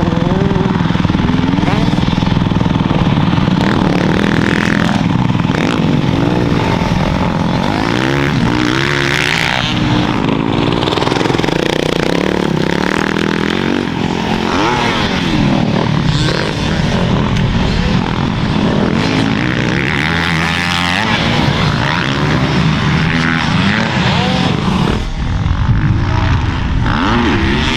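Dirt bike engines revving on a motocross track, their pitch climbing and dropping over and over with throttle and gear changes.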